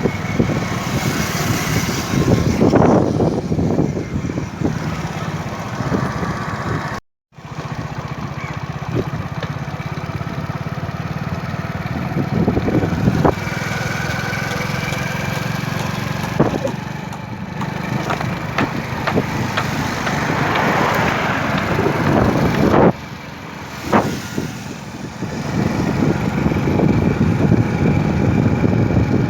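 Motorcycle engine running steadily while riding, with road noise. The sound cuts out for a moment about seven seconds in.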